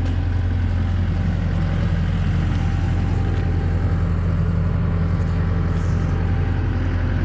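A machine's engine running steadily at an even speed, a constant low hum with no change in pitch.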